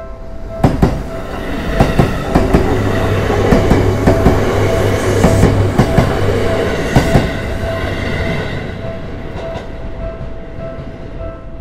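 Electric commuter train on the Seibu Tamagawa Line passing over a Japanese level crossing. Its wheels clack over the rail joints, loudest from about two to seven seconds in, then fade away. The crossing's warning bell keeps dinging in an even, repeating rhythm throughout.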